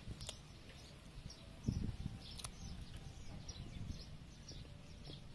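Small birds chirping over and over in short, quick falling notes, with a low muffled thump about two seconds in and a couple of faint sharp clicks.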